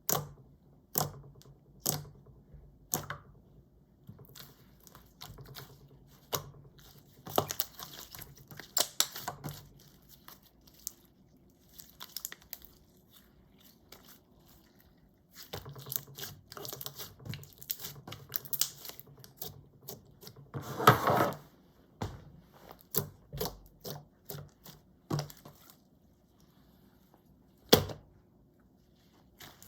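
Hands kneading and stretching a bubble-filled clear slime: sticky clicks and crackling pops as the trapped air bubbles burst, in irregular bursts with a longer, louder crackle about two-thirds of the way through.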